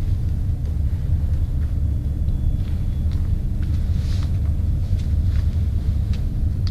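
Steady, dense low rumble, with faint scattered clicks and ticks above it.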